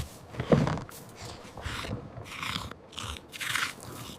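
An animal crunching and chewing food, a run of short crunchy bites about one every half second.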